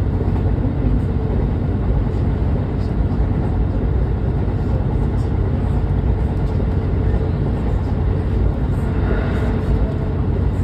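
Train running along the track, heard from inside the front of the car: a steady low rumble of wheels on rail and running gear.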